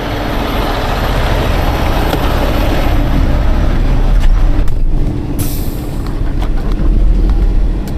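Heavy tow truck's diesel engine running as the truck is moved, a steady rumble, with a short high hiss about five and a half seconds in.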